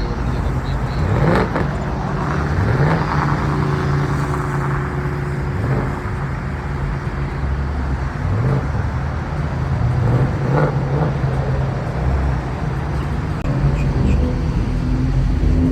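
Car engine running, its pitch rising several times as it speeds up.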